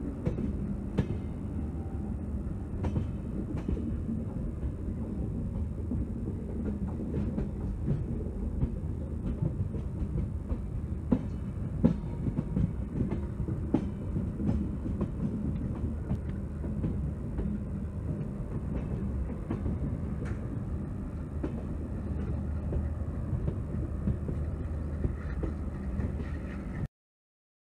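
Indian Railways passenger train running, heard from on board: a steady low rumble of the wheels on the track, with irregular clicks and clunks as they cross rail joints and points. It cuts off near the end.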